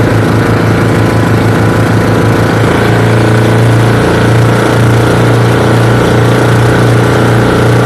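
Twin engines of a bangka outrigger boat running loud and steady under way, with a strong low hum.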